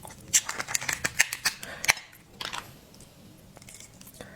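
Close, crisp crackling and clicking from seafood being eaten and handled, a rapid run of small cracks in the first two seconds, then one short scrape and a few faint ticks.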